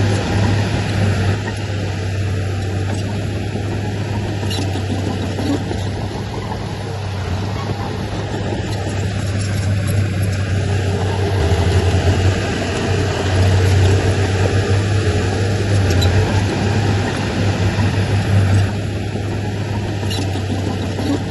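Heavy earthmoving machine's diesel engine running steadily under load, with a strong low hum that swells a little in the middle.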